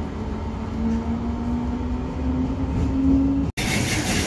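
Train running with a low rumble and a motor whine that rises slowly in pitch. About three and a half seconds in it cuts off suddenly, giving way to louder hiss and rail noise from another train.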